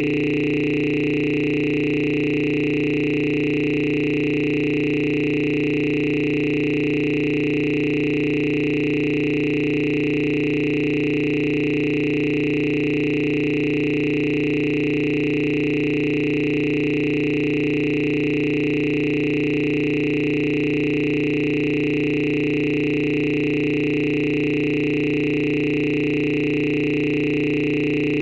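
A steady, unchanging electronic drone made of several fixed tones, low and high together, that never varies: an audio glitch in the meeting recording rather than any real-world sound.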